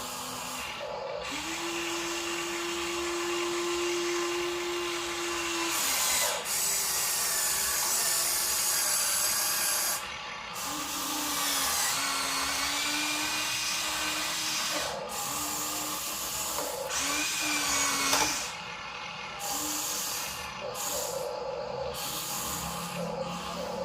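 Small electric motors and plastic gearing of a Huina RC dump truck whining in stop-start runs: one run of about four seconds, then several shorter bursts later.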